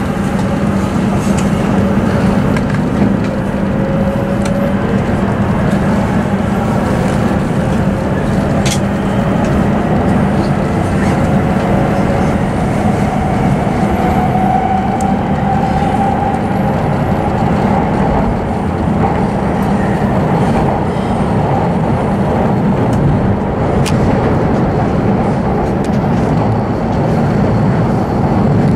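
Inside the passenger cabin of an E7 series shinkansen in motion: a steady, loud rumble of the running train with a low hum. A faint whine slowly rises in pitch over the first half, and a few sharp clicks come and go.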